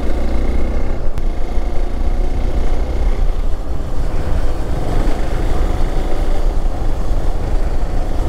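Hero XPulse 200 4V's single-cylinder engine running steadily under way, with a heavy low rumble throughout. A faint high whine sits over it for the first three seconds.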